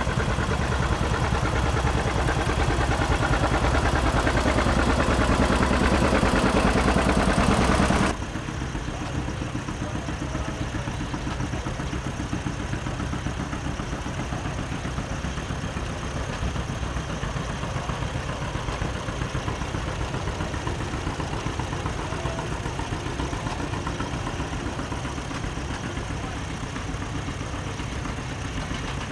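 Antique farm tractor engines running steadily. The sound is louder for the first eight seconds or so, then drops abruptly to a quieter, steady engine drone.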